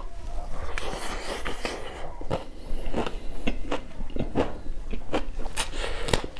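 Close-miked mouth sounds of a man eating singju with rice: irregular crisp crunches and wet clicks of chewing, several a second.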